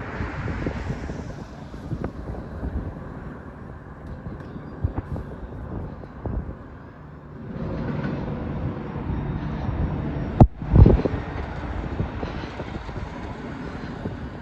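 Intermodal freight train cars rolling past on the rails: a steady low rumble with irregular wheel clatter, and two sharp knocks a little after ten seconds in.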